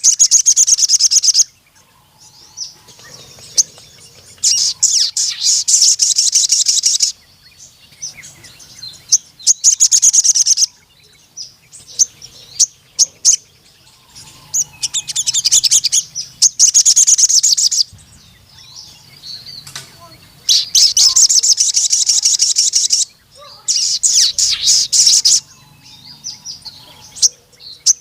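Crimson sunbird (sogon) singing in bursts of rapid, high, metallic trills about 1 to 3 seconds long, with short chirps in between. These are the long trilling phrases ("nembak panjang") of a bird in full song.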